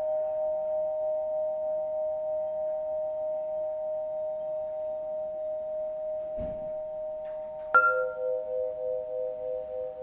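Singing bowls ringing in a sound bath: a sustained, wavering tone slowly fades. Near the end a bowl is struck, and a new, lower tone starts ringing with a slow pulsing waver.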